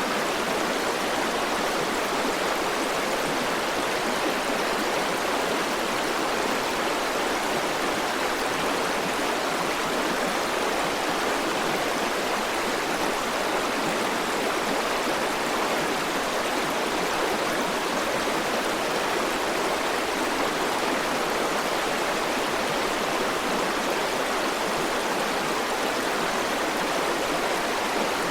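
River water flowing over rocks in a steady, even rush with no breaks or changes.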